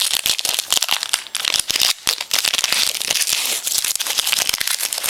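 A trading-card pack's wrapper being torn open and crinkled in the hands: a dense, continuous run of crackling rustles.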